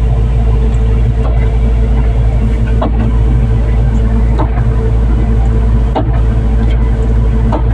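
Excavator diesel engine running steadily with a loud low drone, with a faint click about every second and a half.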